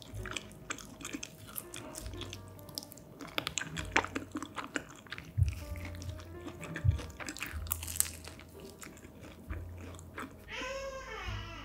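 Close-up crunchy bites and chewing of pizza, with many small crisp crackles of the crust. About a second before the end a baby gives a short wavering cry.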